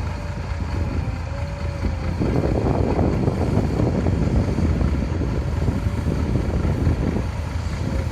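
Heavy diesel engines of an excavator and dump trucks running, getting louder about two seconds in, with wind buffeting the microphone.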